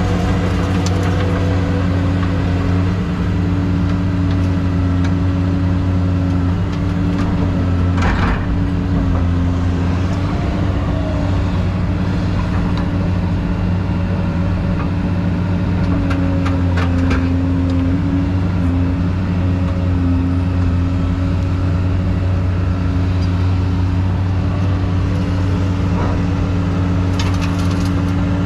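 Excavator's diesel engine running steadily under working load, its pitch dipping slightly now and then, with a few sharp knocks about a third of the way in, past the middle and near the end.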